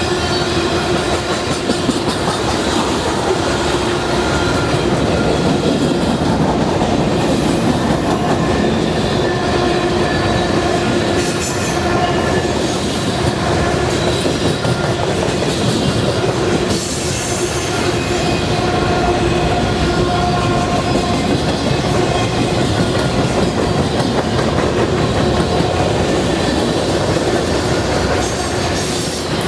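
Norfolk Southern freight train cars rolling past close by, with a continuous rumble and clatter of wheels on the rails and steady squealing tones from the wheels.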